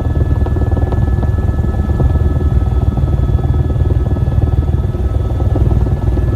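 Helicopter in flight, heard from inside the cabin: steady loud rotor and engine noise with a fast low pulsing and a thin steady whine above it.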